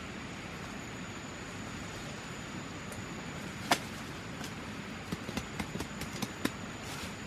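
Steady background hiss with a faint, thin high tone; one sharp knock about halfway through, then a run of lighter clicks and taps near the end.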